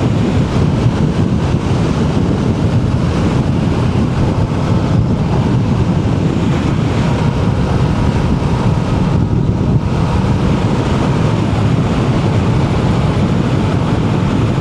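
Motorcycle riding at a steady cruising speed: heavy wind rush on the microphone over a steady engine drone.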